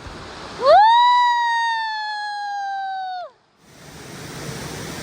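One long, high drawn-out vocal call that rises quickly, holds and slowly sinks in pitch, then cuts off sharply; after a brief silence, a steady rush of falling water.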